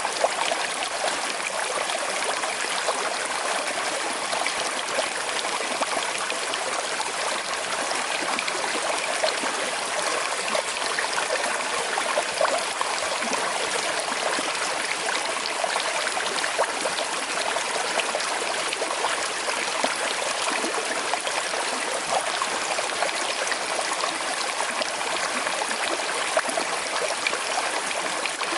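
A small, slow-flowing forest river running and trickling steadily over stones, an even rushing burble with small splashes.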